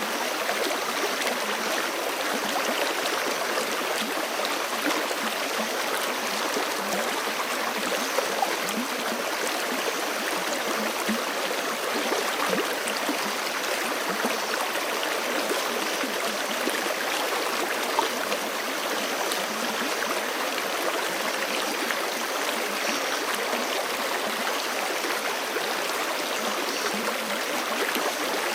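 A forest creek flowing steadily over rocks, water rushing and splashing with small gurgles.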